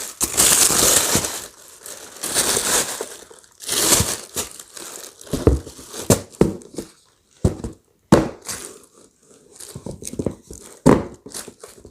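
Shoe packaging crinkling and rustling in repeated bursts as it is handled, with a few short knocks in between.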